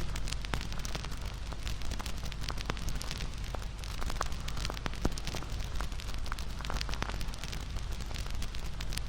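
Wood fire burning: a steady rush of flames with many sharp crackles and pops scattered throughout.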